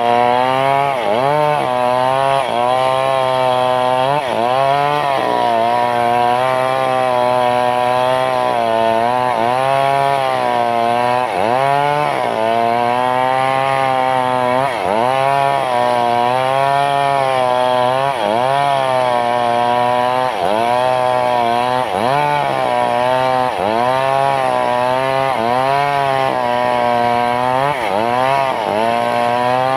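Stihl chainsaw ripping lengthwise through teak wood, held at high revs. Its engine pitch sags and recovers every second or two as the chain bogs in the cut and frees again.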